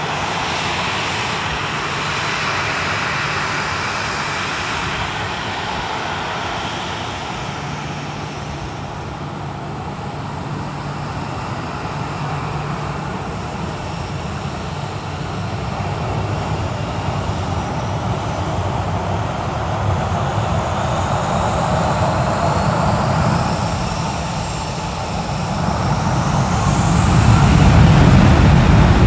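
Airliner jet engines running at an airport, a steady roar with a high whine that rises in pitch in the second half and a low rumble that swells loudest near the end.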